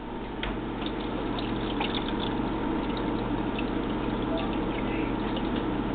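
Water being poured steadily from a cup into the water reservoir of a Keurig coffee maker, with a few faint clicks.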